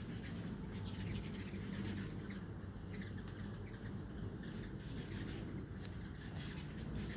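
Hummingbirds feeding, giving short high chirps and chitters every so often, over a steady low background rumble.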